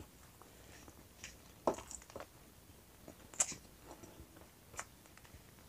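Close-miked eating sounds of a person chewing roast chicken wing with her mouth closed: soft irregular smacks and wet clicks from the lips and fingers. The two sharpest come about a second and a half in and about three and a half seconds in.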